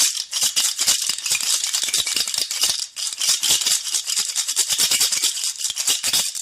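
Maracas shaken in a fast, steady rhythm, a rapid rattling of beads or seeds inside the gourds, which stops abruptly at the end.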